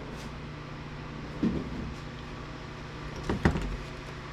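A few short clunks and knocks as parts of an APC battery backup unit are handled during disassembly, one about a second and a half in and two close together past the three-second mark, over a steady low hum.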